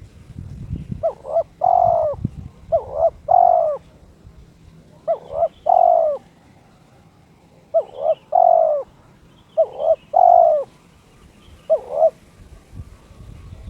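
Spotted dove (terkukur) cooing its song, a short phrase of quick notes ending in a longer coo, repeated six times. The uploader presents the bird as in breeding condition and calling to challenge a rival.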